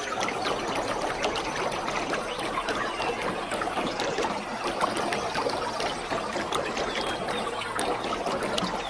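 Waterfall: a steady, dense rush and splash of falling water.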